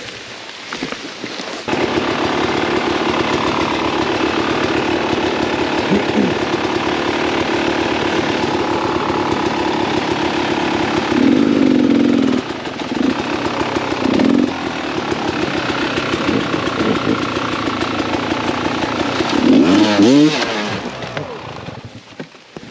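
Two-stroke Beta 300 RR dirt bike engine running hard on the trail. It gets loud about two seconds in and holds there, with revs rising and falling and quick throttle blips near the middle. A last sharp rise in revs comes near the end before it drops away.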